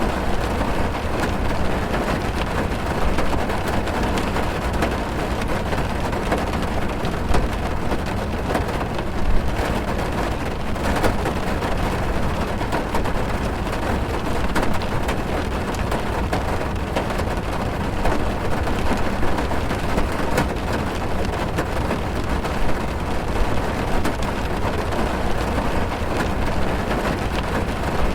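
Rain drumming on a car's roof and windows, heard from inside the car: a steady, dense patter of drops over a low rumble.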